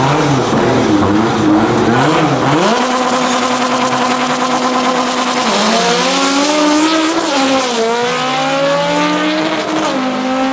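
Honda Civic EJ9's naturally aspirated 2.4-litre K24 engine revving up and down, then held at steady revs for about three seconds. It then pulls hard, its pitch climbing and dropping sharply at two gear changes.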